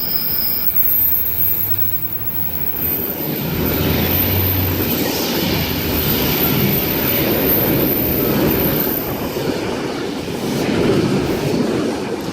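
NSW TrainLink V-set intercity electric train, two sets coupled, running past the platform: a continuous rumble and rattle of wheels on rail, with a low hum in the first few seconds and a high whine that fades out before the end.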